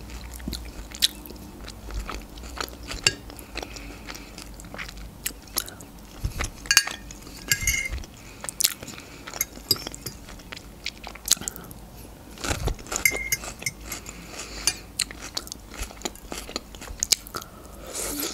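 Close-up chewing and crunching of Caesar salad made with Chinese cabbage and croutons, mixed with a metal fork clinking and scraping against a glass baking dish. Many short, sharp clicks and crunches, irregularly spaced.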